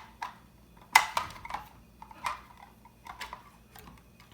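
Small plastic toys clicking and clacking as they are handled and set down, with a sharp knock about a second in and a few lighter taps after it.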